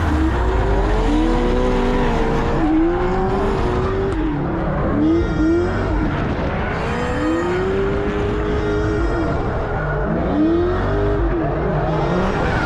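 Drift car engine revving hard up and down over and over, its pitch climbing and dropping every second or two, with tyre noise underneath.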